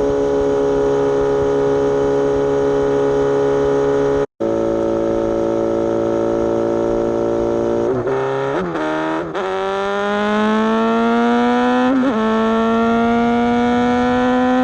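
Suzuki GSX-S750 inline-four through an aftermarket Coffman's exhaust, heard from on the bike while riding. The engine note eases off steadily at first, breaks for an instant about four seconds in, then dips with a few quick gear changes and climbs steadily in pitch as the bike accelerates, with one more shift about twelve seconds in.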